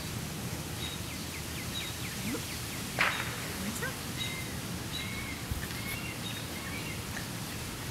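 Steady outdoor background noise with small birds chirping now and then, and one short sharp sound about three seconds in.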